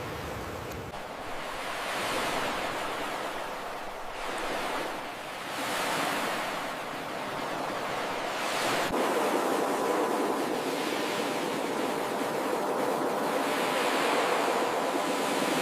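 Ocean surf: waves breaking and washing up the beach, rising and falling in repeated swells every few seconds.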